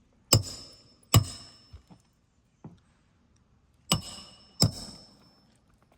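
Hammer blows on a steel roof snake, driving roofing nails into a replacement shingle: four sharp metallic strikes with a short ring, in two pairs about three seconds apart.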